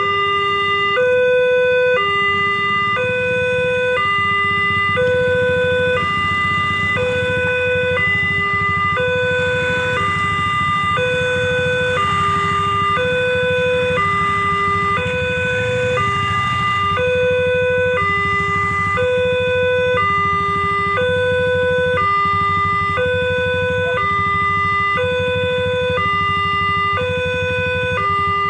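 Railway level-crossing warning alarm sounding: an electronic two-tone signal alternating evenly between a higher and a lower note about once a second, warning that a train is approaching. A steady low rumble runs beneath it.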